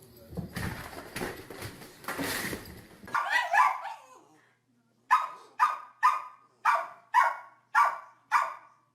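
A dog barking seven times in a steady run, about two barks a second. Before it come a few seconds of noisy rustling and a short higher call.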